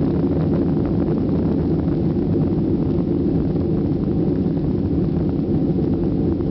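Airliner jet engines at takeoff power, heard inside the passenger cabin as a steady, even rush of engine and air noise.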